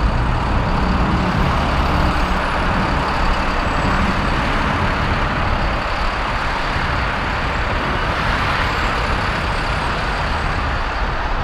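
Noisy, steady roar of congested highway traffic: engines and tyres blending into one continuous wash of noise with a deep rumble underneath.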